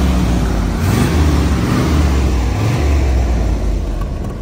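1970 Chevrolet Corvette L46's 350 cubic-inch V8 revved in repeated throttle blips from idle, each blip a rising note over a low rumble. The exhaust sounds very quiet through the replacement mufflers.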